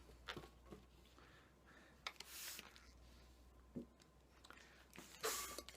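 Faint handling of a latex modelling balloon: a few light clicks and rubs, with two short hissing rushes of air about three seconds apart as the white balloon is inflated.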